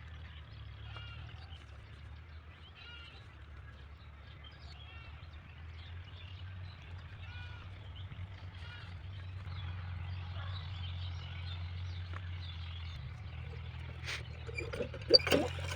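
Birds chirping in short repeated calls over a steady low hum, with a few sharp clicks near the end.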